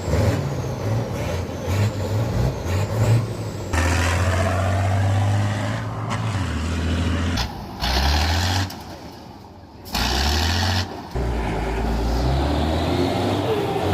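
A quick-cut run of heavy truck diesel engines revving and pulling, the sound changing abruptly every second or two, with a dip between cuts in the middle.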